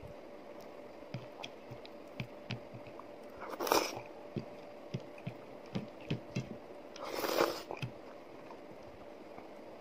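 Close-up eating sounds of a person eating ragi mudde with chicken soup by hand: soft chewing with frequent small wet mouth clicks, and two louder, longer wet sounds, one about four seconds in and one about seven seconds in. A faint steady hum sits underneath.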